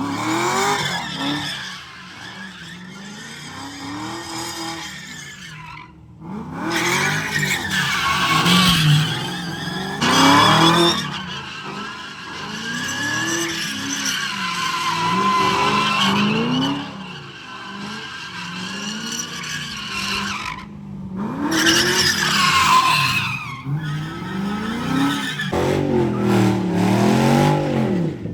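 Cars doing burnouts and slides: engines revving up and down hard while tyres squeal. The sound breaks off abruptly three times, about six seconds in, near 21 seconds and again near 25 seconds.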